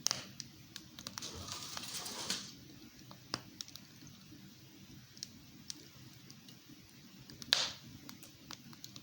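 Wood fire crackling in a fireplace: scattered sharp pops and snaps, with a hissing swell about a second in and one louder pop with a hiss about 7.5 seconds in.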